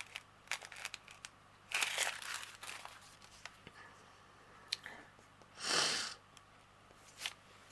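Small plastic bags of diamond painting drills being handled, crinkling and rustling, with scattered light clicks; the loudest rustles come about two seconds in and again about six seconds in.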